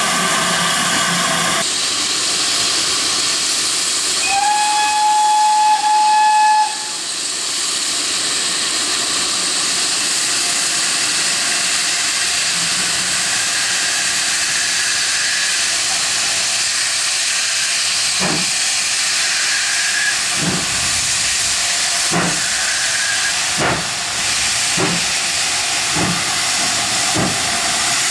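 Steam locomotive blowing off a steady hiss of steam, then sounding its whistle once for about two seconds. From about two-thirds of the way in it starts away, with slow exhaust chuffs about one a second.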